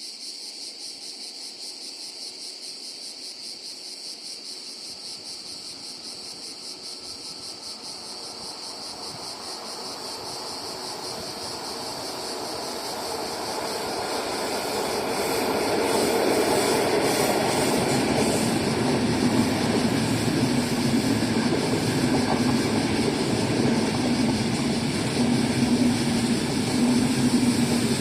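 A train approaching on the line, growing steadily louder over about eight seconds and then running loud and steady, with a low hum joining near the end. A constant high insect buzz runs underneath.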